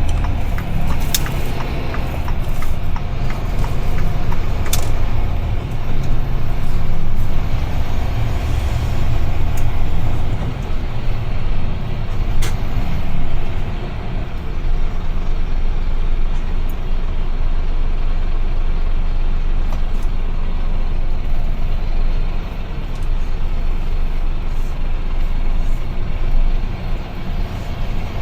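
Steady low engine and road rumble inside the cab of a UD Trucks Quon heavy truck on the move, with a few sharp clicks.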